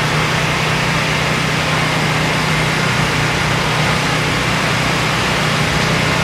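A car engine idling steadily at a low, even hum.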